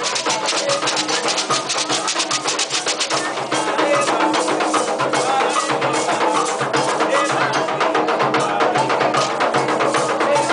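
Afro-Brazilian ritual drumming: hand drums and a sharp, clicking struck percussion play a fast, steady rhythm, with voices chanting over it.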